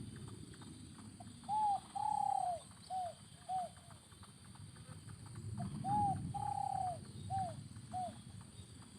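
Spotted dove (terkukur) cooing: two phrases, each a short coo, a longer drawn-out coo and two short coos, the first about a second and a half in and the second about five and a half seconds in.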